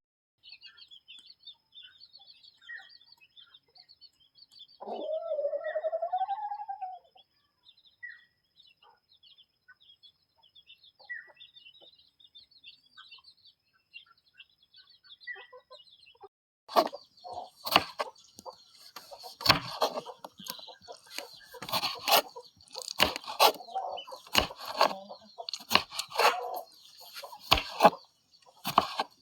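Village chickens: one drawn-out, wavering call about five seconds in over faint high chirping of small birds. From about halfway there is a busy stretch of sharp knocks and clatter mixed with clucking.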